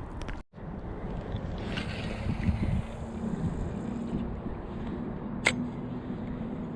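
Steady outdoor rumble with wind on the microphone and a low, steady motor hum, with one sharp click about five and a half seconds in.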